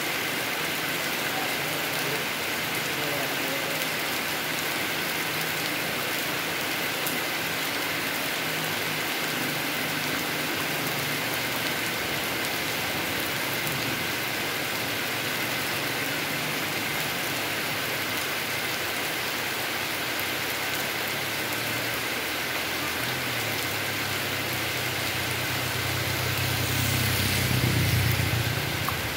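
Heavy rain falling steadily on a paved road and thick foliage, an even, dense hiss. A motor vehicle's engine builds up during the last few seconds, grows loudest near the end and then drops away.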